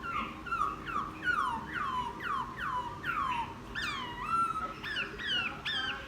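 Wild-caught laughingthrush singing a run of clear whistled notes, about two a second, each sliding down in pitch; the later notes end with an upward hook.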